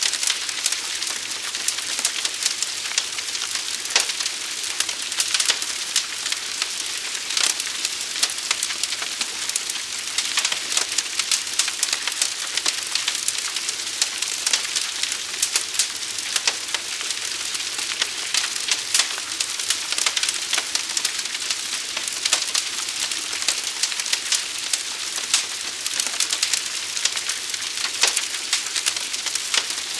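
Forest fire burning: a steady hiss with frequent sharp crackles and pops throughout.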